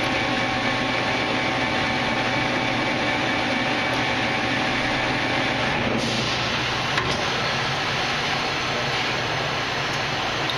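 Victor engine lathe running under power, its gear train and feed drive making a steady mechanical whir; the sound changes character about six seconds in.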